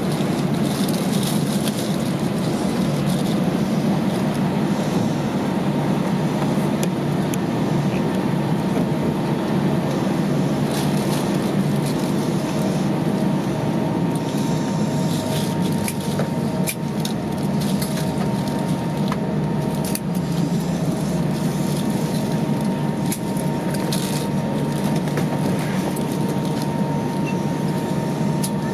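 Steady low hum of cabin noise inside an Airbus A320 on the ground after landing, from the idling engines and cabin air system, with a faint steady whine and occasional small clicks and rattles.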